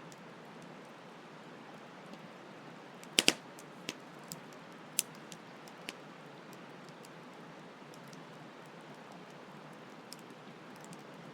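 Campfire crackling over the steady rush of a flowing stream: a loud double pop about three seconds in, then a few smaller pops and snaps over the next few seconds.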